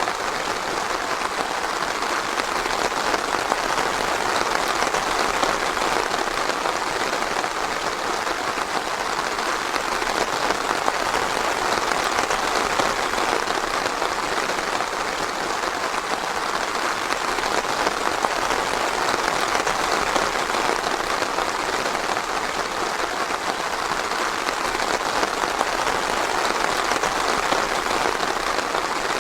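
Steady rain falling, a dense even patter that swells gently now and then.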